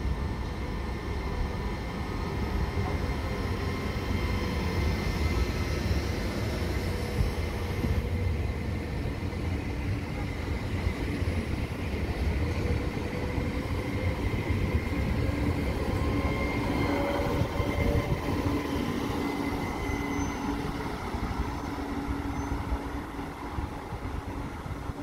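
A Trenitalia 'Pop' ETR 104 electric multiple unit running along the station track past the platform. Its wheels and body give a steady low rumble, with a thin electric whine over it, and a lower hum comes in over the second half.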